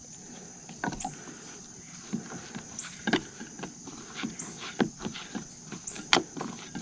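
Crickets chirping steadily in the background, with irregular sharp clicks and taps, several a second, over them.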